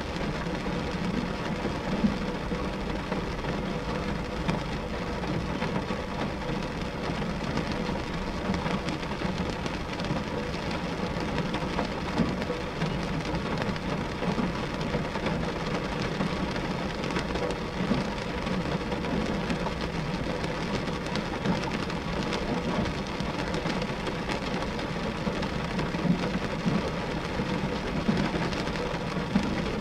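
Steady rain falling on a glass window pane: a dense, even patter, with a few sharper drop hits standing out now and then.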